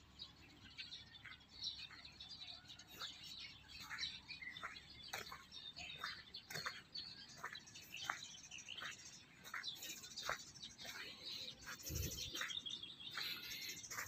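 Faint birdsong: short chirps falling in pitch, about two a second, over fainter high twittering. There is one low thump near the end.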